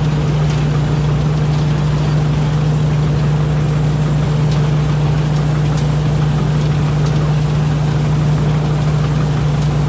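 Rice combine harvester's engine running at a steady, even speed with a constant low hum, while harvesting.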